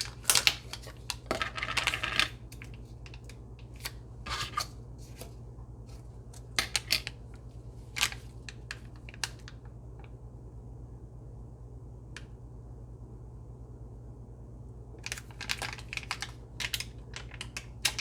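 Clicks, taps and crinkling of a plastic ricotta tub being handled and pried at as it resists opening, thick at the start and again near the end with a quieter stretch in between.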